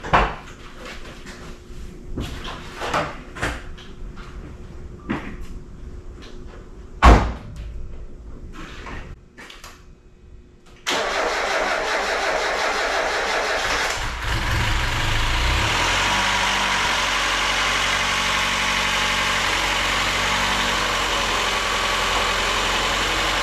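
Scattered clicks and knocks, one loud knock about seven seconds in. Then, about eleven seconds in, the freshly rebuilt Mazda Miata 1.8 four-cylinder starts for the first time and settles into a steady idle, with lifter tick that is expected to quiet once oil pumps up.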